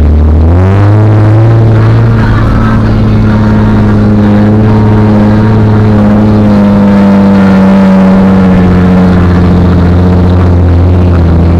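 Jeep Wrangler TJ engine, heard from inside the cabin, revving up about half a second in and then pulling steadily under load as it drives through snow. The engine note rises a little more around the middle and eases off near the end.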